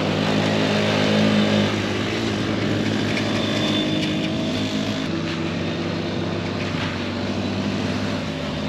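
Several small youth ATV engines running on a dirt track, their pitches rising and falling as the riders work the throttles.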